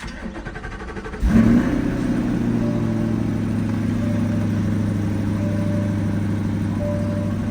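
Chevrolet Corvette C8's 6.2-litre V8 turned over by the starter for about a second, catching with a brief rev flare, then settling into a steady idle.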